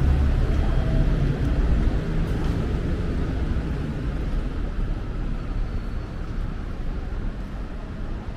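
Street traffic: a heavy vehicle's low engine rumble, loudest at the start and fading over the next few seconds, over steady road noise.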